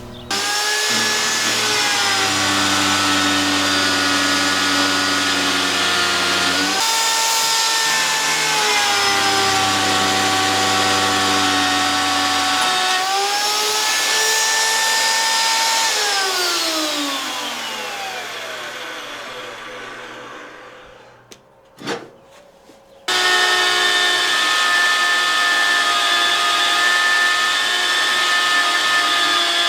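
Vevor magnetic drill's motor running with a steady whine while drilling mounting holes, its pitch shifting twice as the load changes. About 16 s in it is switched off and winds down with a falling whine; after a click it starts up again and runs steady.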